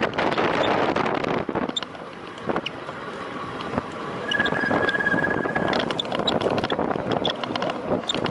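Wind rushing over the microphone of a racing bicycle. The rush eases for a couple of seconds, and around the middle a steady high squeal, brake squeal, sounds for about a second and a half before the rush picks up again.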